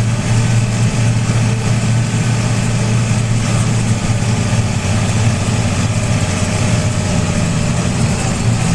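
Tractor engine running steadily, heard close up from aboard the tractor: an even low hum over a wide hiss, with no change in speed.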